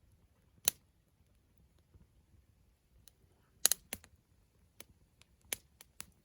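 Burning firewood crackling: scattered sharp pops over a faint low rumble, one loud pop about a second in and a cluster of pops around the middle.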